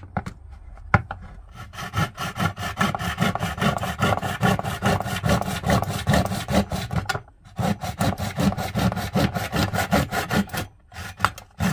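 Hand saw cutting back the side pieces of a machine's chip outlet, in a quick run of back-and-forth strokes. It pauses briefly about seven seconds in and again near the end.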